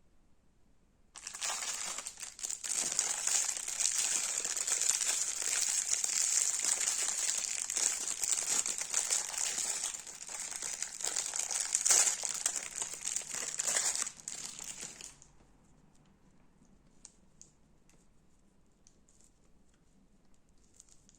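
Crunchy slime being pressed and kneaded: dense crackling and crunching for about fourteen seconds that stops abruptly, followed by a few faint squishes and small clicks.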